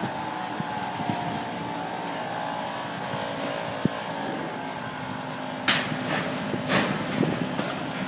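Iron-works shop noise: a steady machine hum, a single sharp knock about four seconds in, then a run of loud metal knocks and clanks from about six seconds in.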